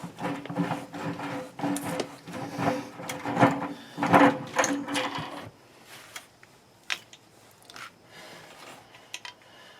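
Wrench working a heating element loose from an electric water heater tank: metal grating and clicking in uneven strokes for about five and a half seconds, then only a few light clicks.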